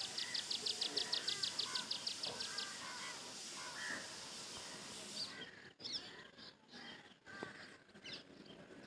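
Birds calling: one gives a fast, even trill of high notes, about six a second, for the first two and a half seconds, while others chirp here and there. A steady background hiss drops away about five seconds in.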